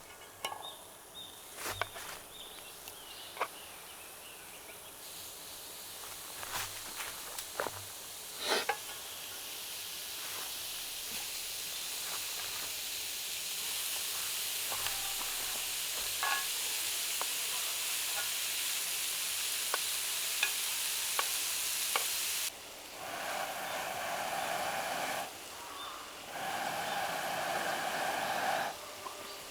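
Meat sizzling as it cooks over the campfire, the hiss building up steadily over several seconds after a few sharp clicks and taps. Near the end the sound changes abruptly a few times.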